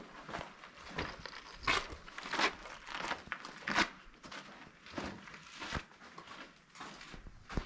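Footsteps of a hiker crunching and scuffing on sandy ground and sandstone, in an uneven rhythm of about one step a second.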